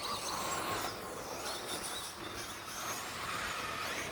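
Radio-controlled 2WD stadium trucks running around an off-road track, their motors and tyres making a steady noise.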